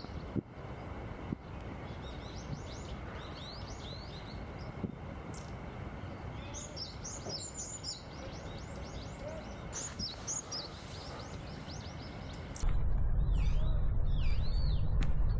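Small songbirds chirping in quick repeated runs of high notes over steady background noise. About three-quarters of the way through the sound changes abruptly: a much louder low steady noise comes in, with other birds giving lower swooping calls.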